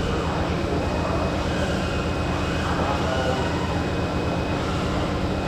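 Steady mechanical rumble and hiss, unbroken throughout.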